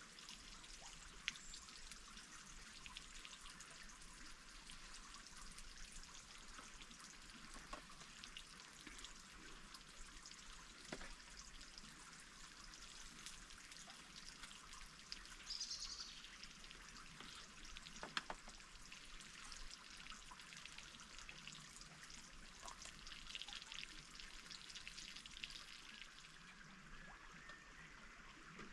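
Faint stream water trickling and babbling steadily, with a few scattered small clicks.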